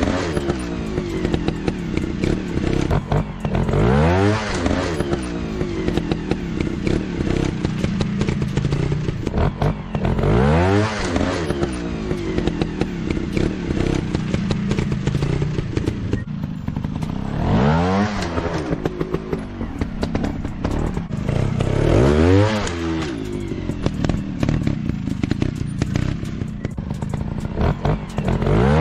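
Trail motorcycle engines revving again and again, each rev a rising then falling whine, about every four to seven seconds, with the engines running steadily in between.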